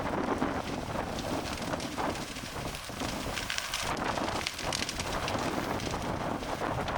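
Wildfire burning close by: a steady rushing roar with scattered crackles and pops, thickest a few seconds in, with wind buffeting the microphone.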